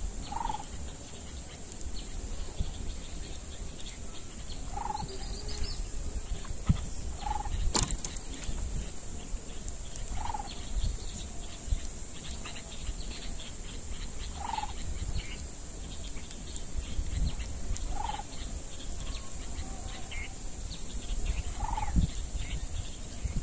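A bird calling with a short note roughly every three to four seconds, seven times, over a steady high hiss and a low rumble. One sharp click comes about eight seconds in.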